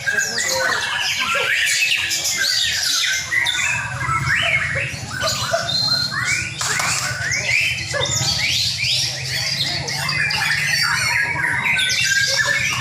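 Several caged white-rumped shamas (murai batu) singing at once: a dense, unbroken tangle of overlapping whistles, quick rising and falling phrases and harsh notes. A low steady hum joins about four seconds in.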